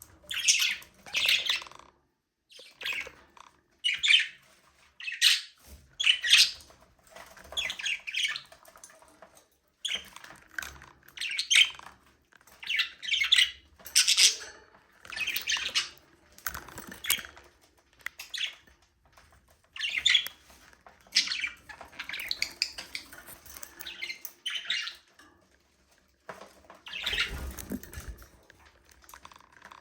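Budgerigars chirping and squawking in short, high calls, one after another about every second, with a brief fuller, lower burst near the end.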